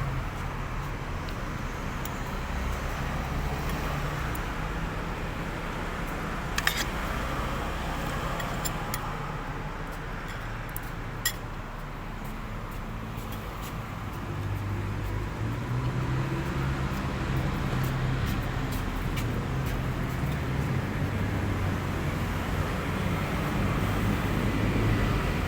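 Road traffic: vehicle engines running close by as a low, steady hum that grows louder about halfway through, with two short sharp clicks.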